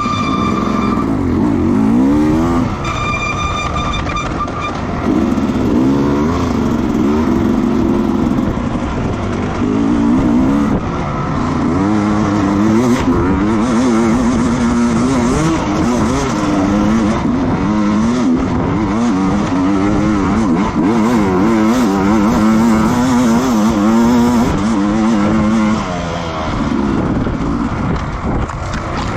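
Racing motorcycle engines revving up through the gears and backing off again and again, the pitch climbing and dropping every second or two. A brief steady high tone sounds twice in the first few seconds.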